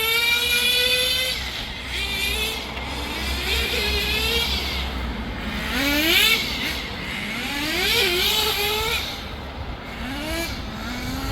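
Small nitro glow engine of a Kyosho V-One R4 1/10 touring RC car running at high pitch. Its note rises sharply about four times and drops back in between as the car accelerates and brakes around the track.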